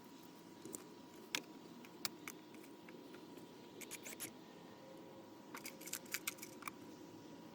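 Scattered faint clicks and small knocks over a steady low hum.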